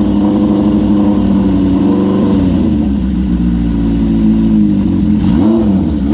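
1973 Honda CB750's air-cooled inline four-cylinder engine running on a cold start: a steady idle that settles slightly lower a little over two seconds in, then one short rev of the throttle near the end.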